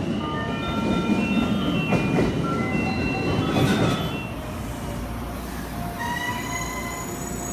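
Haruka limited express electric train pulling into the platform and passing close by: a loud rumble of wheels on rail that eases after about four seconds as the train slows. A high whine comes in about six seconds in as it brakes toward a stop.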